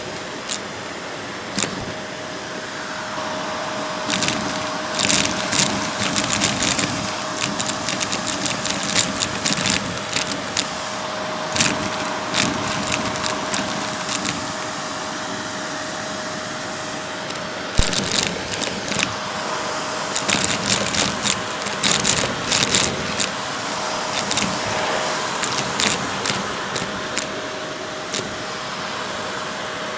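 Vacuum cleaner running steadily with a constant motor hum while it sucks up cut-up cardboard puzzle pieces, which rattle and click through the nozzle and hose in quick clusters, several seconds at a time.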